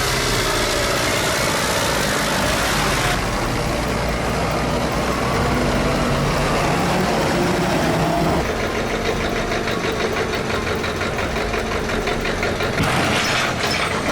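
Tractor engine running, its sound changing abruptly about three and eight seconds in; in the later part it pulses evenly and rapidly.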